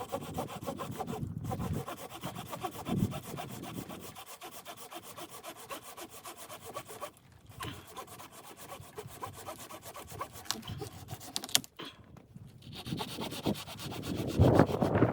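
Saw cutting through wood in quick, steady back-and-forth strokes, with short breaks about seven and twelve seconds in.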